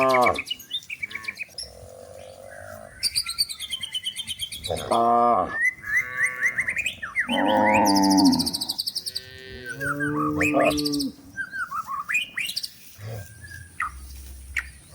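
Cows mooing several times, long low calls that bend in pitch and come mostly in the middle of the stretch, with birds chirping between and over them.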